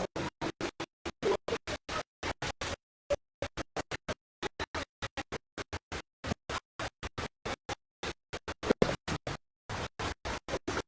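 Choppy, broken-up audio: short fragments of sound cut in and out about four or five times a second with dead silence between them, the stuttering of a transmission breaking up.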